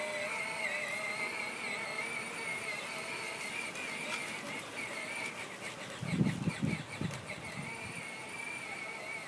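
Steady high-pitched whine of the 12-volt electric drive motors and gearbox of a Peg Perego John Deere ride-on toy tractor, with a few low thumps and rattles about six to seven seconds in.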